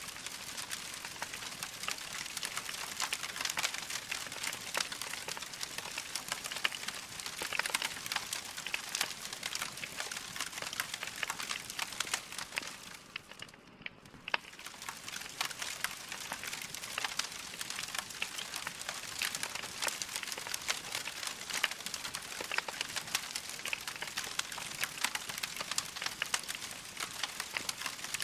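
Wood fire in a fireplace crackling steadily, a dense stream of small pops and snaps over a soft hiss, dipping briefly about halfway through.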